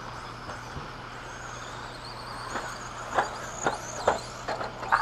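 Radio-controlled stadium trucks racing around the track: high motor whines that rise and fall over a steady rush of tyre and track noise. In the second half come several sharp knocks.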